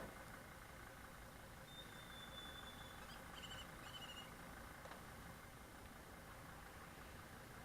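Near silence: a faint, even low rumble of background ambience, with a thin high whistle about two seconds in and a few faint high chirps a second later.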